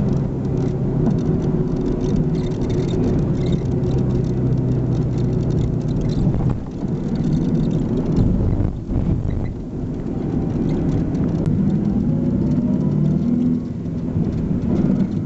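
Motor vehicle engine running with a steady low hum, under a rushing noise; near the end a rising engine note, as of a vehicle speeding up.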